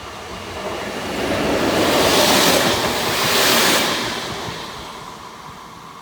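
A train passing at speed close by: a rushing noise that swells to a peak about halfway through and then fades away.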